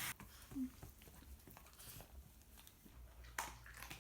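Shih Tzu chewing a piece of chicken: faint, irregular soft clicks and crunches, with one sharper click near the end.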